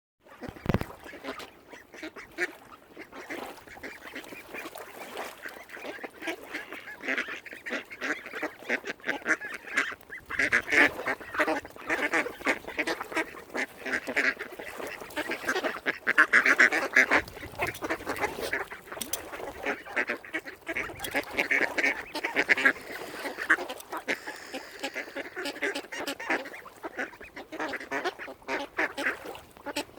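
A flock of waterfowl calling together: many short calls overlap without a break, growing louder through the middle.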